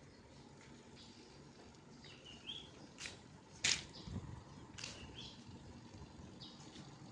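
Small birds chirping in short, repeated calls over a faint steady background, with three sharp clicks from about three to five seconds in, the middle one loudest.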